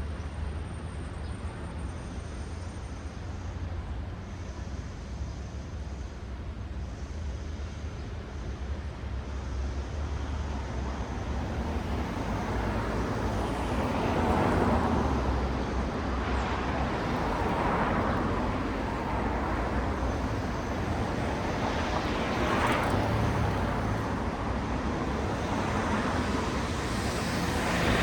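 Road traffic: a steady low rumble, then from about halfway through several cars passing one after another, each a rising and falling swish of tyre and engine noise.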